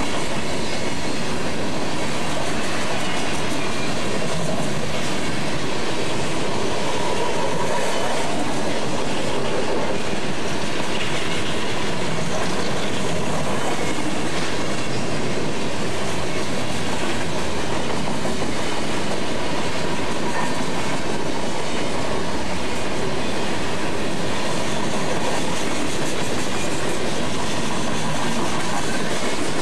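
Union Pacific coal train's hopper cars rolling past: the steady noise of steel wheels running on the rails.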